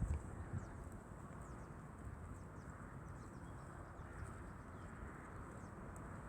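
Faint rural outdoor ambience: a steady low rustle with many short, falling bird chirps and a thin, steady high-pitched tone, with a couple of soft low knocks at the very start.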